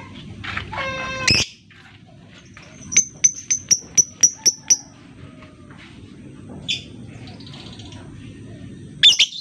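Lovebird calling. It gives harsh pitched squawks, then a quick run of about eight sharp, high ticking chirps, then a short call and a loud call near the end.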